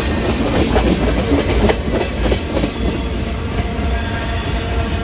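A train rolling past: heavy low rumble with wheels clacking over the rail joints, the knocks thickest in the first half.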